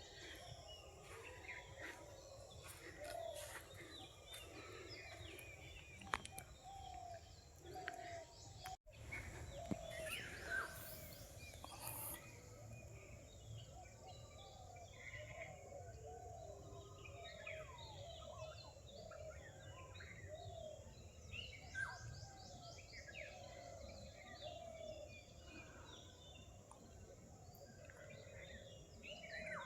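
A faint morning chorus of many forest birds calling and chirping at once, overlapping high chirps over a steady run of lower repeated calls. The sound cuts out completely for an instant about nine seconds in.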